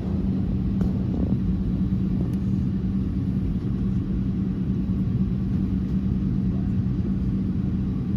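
Steady low drone inside the cabin of an Airbus A319 airliner during pushback, a constant hum from the aircraft's engines and air systems with little change in pitch.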